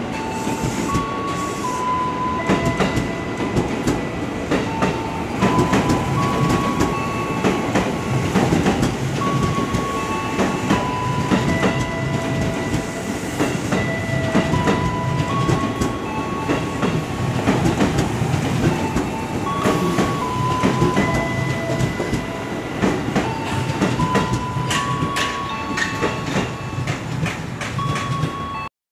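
Electric commuter train cars rolling along the platform track, with a steady rumble and wheels clicking over rail joints.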